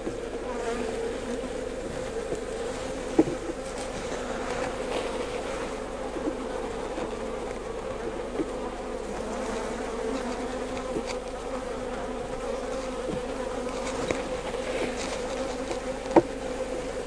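Honeybees buzzing in a steady drone around an opened Langstroth hive as its frames are worked, the bees disturbed and not real happy. A few sharp clicks sound over the buzz, the clearest about three seconds in and again near the end.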